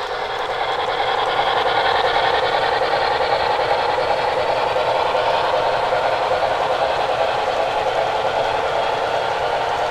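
HO scale model train running along the track: a steady whirring rolling noise of small wheels on rail and the locomotive's motor, getting a little louder about a second in.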